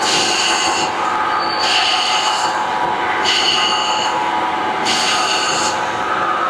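Okuma CNC lathe cutting a left-hand thread in 4140 steel with a grooving insert, taking repeated passes: a high-pitched squeal from the cut about every second and a half, each lasting under a second, over the machine's steady hum.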